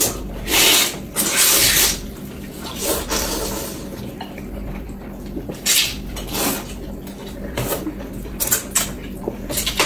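Mealtime noises of dishes and utensils: a few hissing, rustling bursts and short clattering clicks over a steady low hum.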